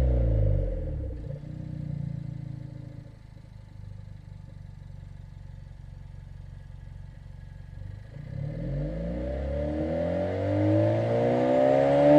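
Suzuki Swift Sport ZC33S's 1.4-litre turbocharged four-cylinder engine heard through a Monster Sport Sp-X dual aftermarket exhaust. The revs fall back to idle in the first second or so, it idles steadily for several seconds, then it is revved up again near the end.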